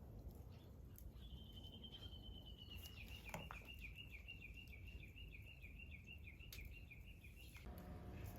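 A faint, high, wavering trill lasting about six seconds, pulsing a few times a second and slowly falling in pitch before stopping abruptly, typical of an evening cicada (higurashi) singing at dusk.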